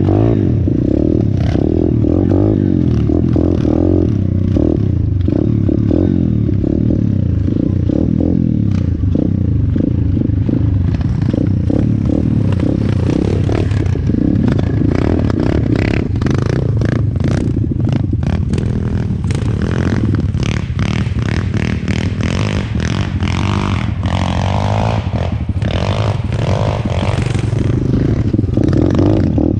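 A 125cc single-cylinder pit bike engine running while being ridden, its pitch rising and falling with the throttle. Rattles and knocks from the bike crossing rough ground come often from about a third of the way in.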